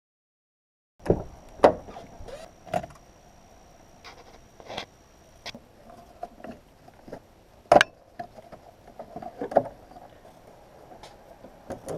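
Irregular sharp knocks and clanks, starting about a second in and loudest about two-thirds of the way through. A faint, high, steady tone runs under them until about halfway.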